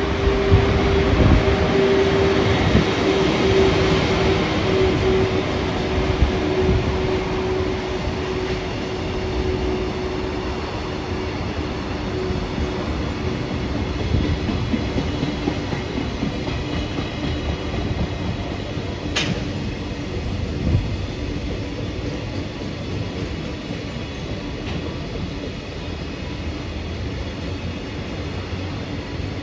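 An electric train running past with a steady rumble and a steady whine that fades away about halfway through. A single sharp click about two-thirds through.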